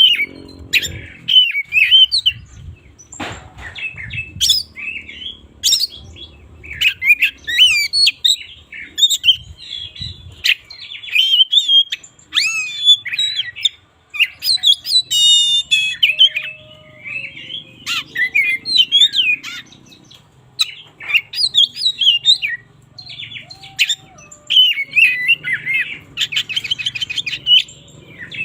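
Oriental magpie-robin singing a loud, varied song of whistles, chirps and harsh notes, with fast rattling trills about halfway through and again near the end.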